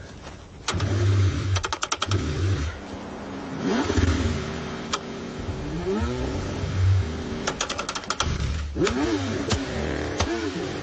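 Car engine cranking in repeated bursts with pauses between, its pitch rising and falling as it revs, with short runs of rapid clicking.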